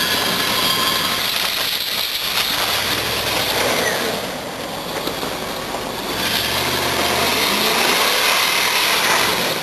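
Dodge Ram 1500's 5.9-litre V8 engine running under throttle with tyres spinning and churning through gravel, easing off for a couple of seconds mid-way.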